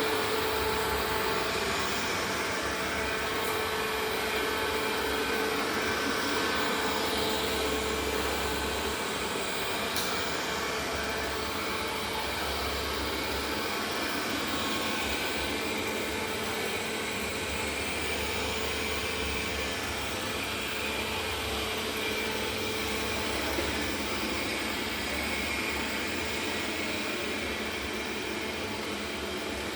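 A steady mechanical whir or drone, with a faint held tone in it.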